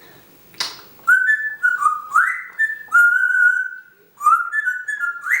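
African grey parrot whistling a string of short, clear notes, some sliding upward and one held a little longer, starting about a second in.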